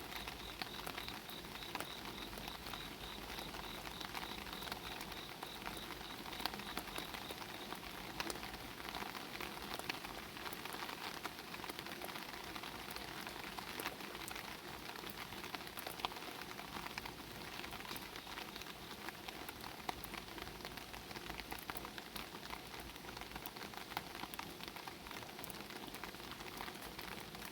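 Steady rain pattering on an umbrella canopy, heard from underneath it, with many individual drops tapping close by. A high, fast-pulsing insect trill runs alongside at first and stops about eight seconds in.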